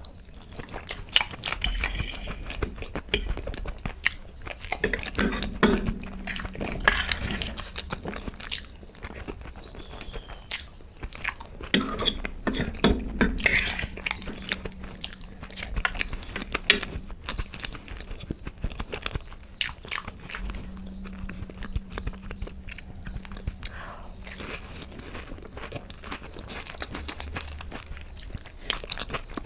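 Close-miked eating sounds: a person chewing and biting food, with irregular wet clicks and crunches.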